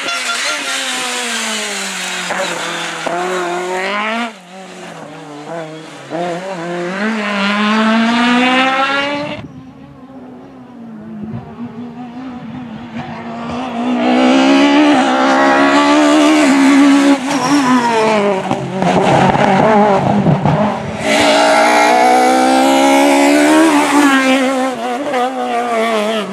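Peugeot 306 Maxi rally car's high-revving, naturally aspirated four-cylinder engine accelerating hard, its pitch climbing to high revs and dropping back at each gear change, again and again. It fades for a few seconds partway through, then comes back loud and close.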